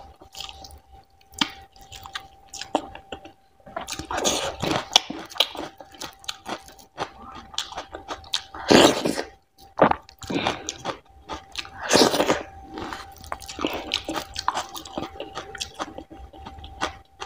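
Close-miked wet chewing and mouth sounds of someone eating fatty goat curry and finger-millet dhido by hand, with squelches of fingers in the oily food. Irregular, with a few louder bursts, about four, nine and twelve seconds in.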